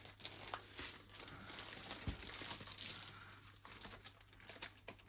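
Irregular rustling and crinkling of a large rolled diamond-painting canvas and its plastic film being handled.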